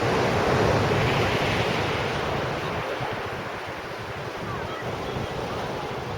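Sea surf breaking and washing on the beach, louder in the first couple of seconds and then easing, with wind buffeting the microphone.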